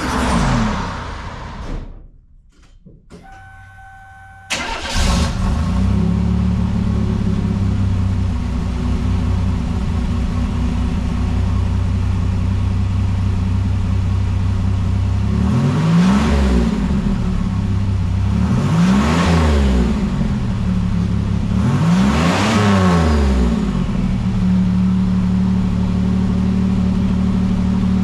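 The 1987 Buick Grand National's turbocharged 3.8-litre V6 starts up about five seconds in and idles. It is revved three times, each rev rising and falling back to idle, about three seconds apart, before settling to a steady idle.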